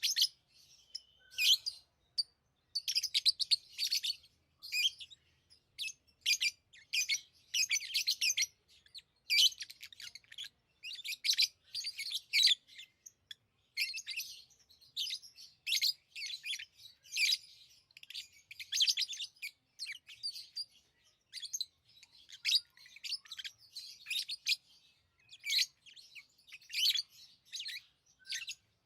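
Pet lovebirds chirping: rapid, high-pitched chirps in quick runs with short gaps between them.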